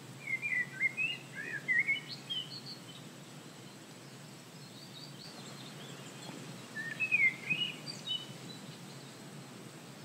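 A songbird singing two short phrases of quick, varied chirps, one in the first few seconds and another about seven seconds in, over a faint steady background of outdoor noise.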